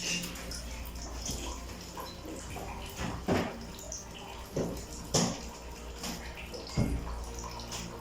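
Water sloshing in a top-loading washing machine tub over a steady low hum from the machine, with several short splashes. It is a test run after the pulsator gearbox was replaced.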